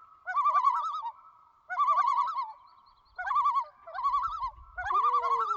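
A bird calling repeatedly, about five quavering, warbling phrases roughly a second apart, each wavering rapidly in pitch.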